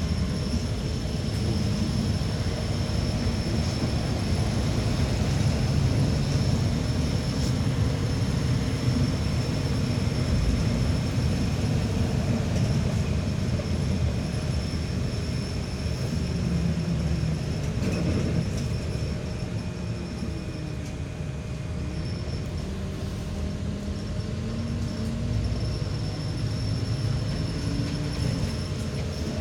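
Inside a moving route bus: steady road and running rumble, with the drivetrain's whine rising and falling in pitch several times as the bus speeds up and slows. A short clunk about eighteen seconds in.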